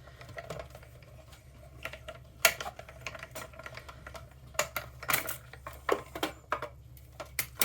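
Irregular clicks and taps of metal cutting dies and plastic plates being handled for die cutting, with the sharpest clicks about two and a half seconds in and a cluster near the end.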